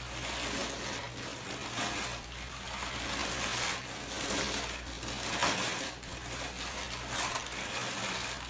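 A tortoise's shell rubbing against a scratching device, giving an uneven, scratchy rasping that swells and fades.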